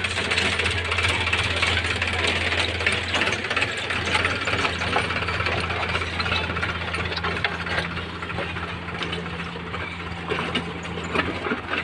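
Diesel engine of earth-moving machinery running steadily with a deep, even drone, easing slightly in level in the last few seconds.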